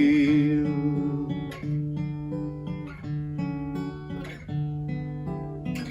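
Acoustic guitar playing a picked, lightly strummed instrumental passage, one note or chord after another, as the last sung note fades out at the start.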